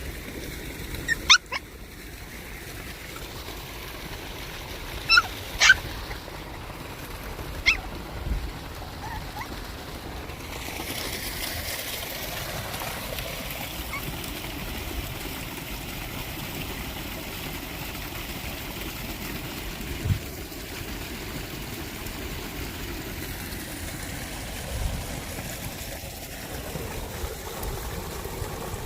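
Maltipoo puppy giving a few short, high-pitched yips in the first eight seconds, over steady outdoor background noise.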